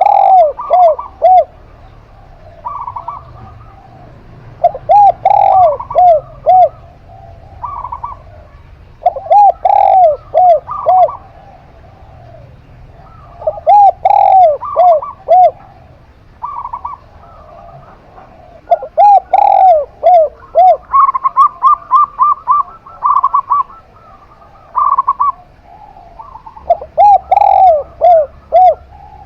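Zebra dove and spotted dove cooing in turn. One bird repeats short phrases of three or four lower notes every few seconds, while the other gives higher notes between them, with a quick run of notes about two-thirds of the way through.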